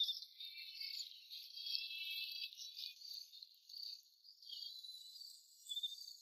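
Chive-and-egg pancake batter frying in hot oil in a wok: a steady, fluctuating sizzle with crackles.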